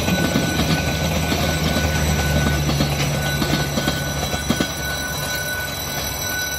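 Diesel train passing a level crossing: low engine drone and wheel clatter that ease off about four and a half seconds in. A level-crossing warning signal sounds steadily throughout as a thin electronic tone.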